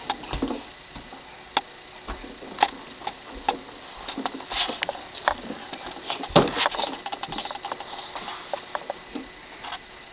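Irregular clicks and knocks of a child's push/ride-on toy truck being pushed and bumped along, with a louder knock about six seconds in.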